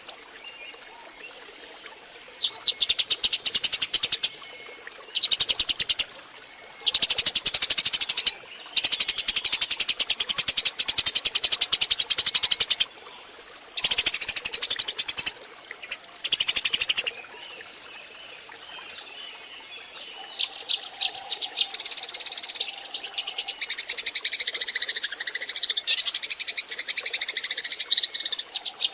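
Eurasian tree sparrows chirping in rapid, high bursts separated by short pauses, then a dense run of chattering from several birds after a brief lull: a flock call played as a lure.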